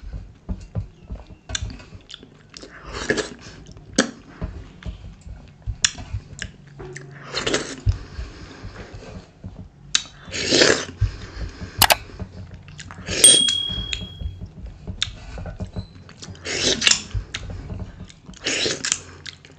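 Close-miked wet chewing and lip smacking from eating dhido with sisnu (thick flour porridge with stinging-nettle curry) by hand. A loud wet mouth sound comes every two to three seconds, with small clicks between.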